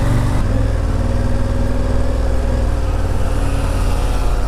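Motorcycle engine running steadily at an even pitch, with no rise or fall in revs.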